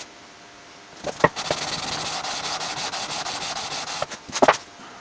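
Sandpaper on a radius block rubbing back and forth over a wooden guitar fretboard in quick short strokes, starting about a second in and stopping after about three seconds, levelling the board over a superglued chip repair. A few sharp knocks follow near the end.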